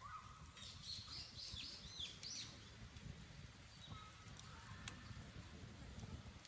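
Campfire crackling quietly, with one sharp pop about five seconds in. A run of high bird chirps sounds between about half a second and two and a half seconds in.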